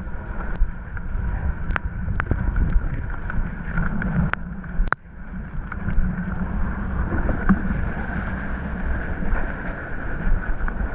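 Enduro dirt bike engine running while being ridden over a trail, with wind rumbling on the camera microphone and a few sharp knocks. The sound drops briefly about five seconds in.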